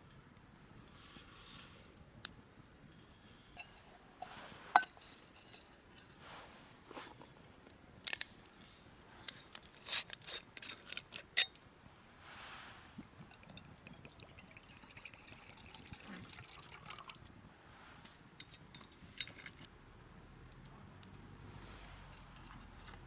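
Scattered sharp clicks, taps and light clinks with small liquid sounds, thickest about a third to halfway through.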